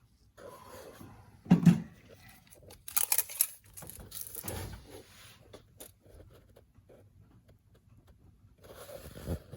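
Clutch disc being handled and measured: irregular scrapes, clicks and short knocks, the loudest about one and a half seconds in, with a cluster of clicks around three seconds.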